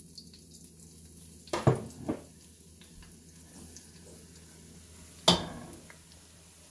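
Drops of besan batter frying into boondi in hot desi ghee in a wok, a low, even sizzle. Three sharp knocks of the perforated metal strainer against the wok: two close together about a second and a half in, and the loudest a few seconds later.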